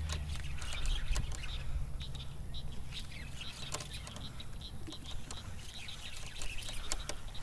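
Faint outdoor ambience of small bird chirps and scattered light clicks and patters, over a low rumble that fades out about three seconds in.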